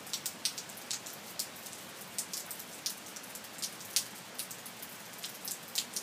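Steady rain falling, a constant hiss broken by frequent sharp, irregular drop hits.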